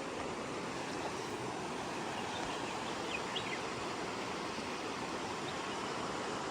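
Steady rushing of a river running high after heavy rain, with a few faint, short high chirps about three seconds in.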